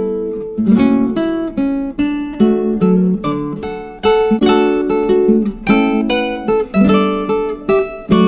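Background music: acoustic guitar playing chords, struck again and again.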